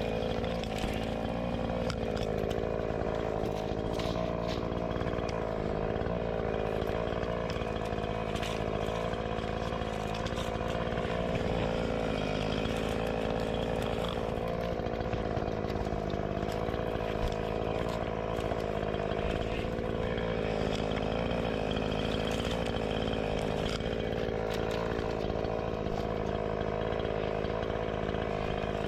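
Chainsaw running steadily under load, its engine note holding with small rises and dips.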